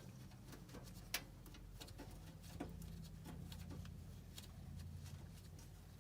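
Scattered light clicks and taps of hand work on gas furnace burner parts, one sharper click about a second in, over a low steady hum.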